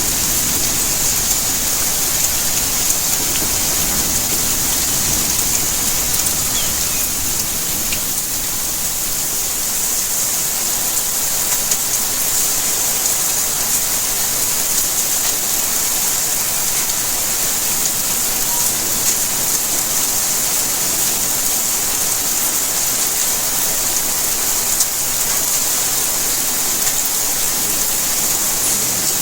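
Steady rainfall, a dense even hiss of drops with scattered small drip ticks, a little fuller in the low end during the first few seconds.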